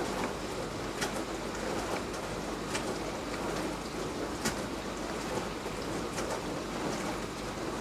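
Beko DWD5410W dishwasher running a wash, water spraying and splashing inside the tub with irregular sharper splashes. A steady low hum runs underneath.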